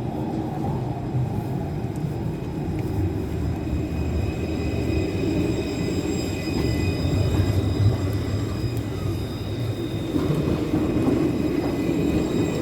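Electric tram running along its track: a steady low rumble with thin, steady high-pitched tones above it.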